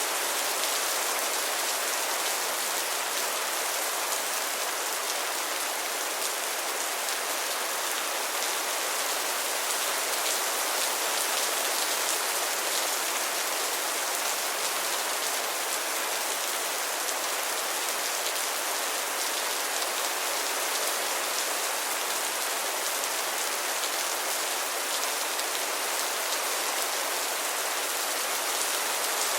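Heavy rain falling steadily, an even hiss of dense drops on surfaces with no gusts, breaks or thunder.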